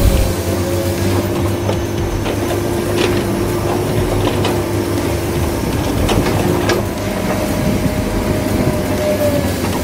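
Small electric motors and gearboxes of radio-controlled model construction vehicles whining steadily, with a few clicks and knocks.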